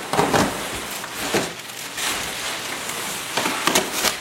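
Cardboard and plastic packaging of a boxed mattress being torn open and handled: continuous rustling and scraping with sharp crackles and a few louder knocks.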